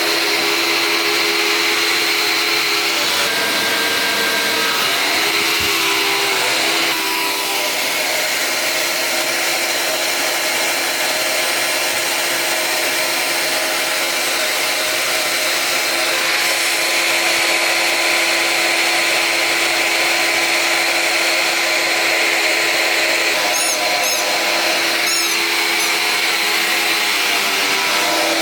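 Vacuum cleaner running steadily with a constant motor whine, dropping slightly in level about seven seconds in. A few brief high squeaks come near the end.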